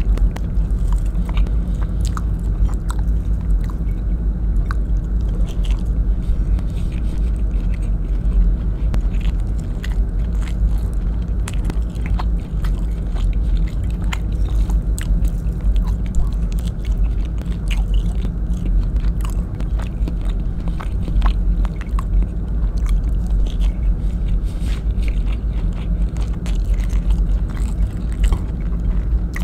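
Close-miked chewing of soft braised beef in coconut-milk sauce, with many small wet clicks and smacks of the mouth, over a steady low hum.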